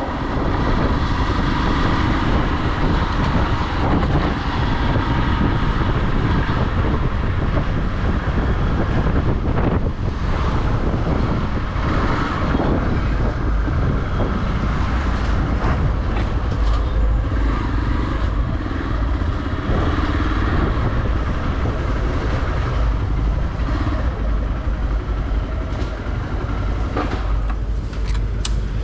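Isuzu D-Max pickup truck driving along a road: steady road and engine noise with a strong low rumble.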